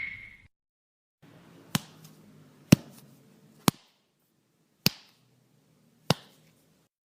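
A comedy hit sound effect: five sharp, short smacks roughly a second apart, each cutting off at once. A louder preceding effect fades out at the very start.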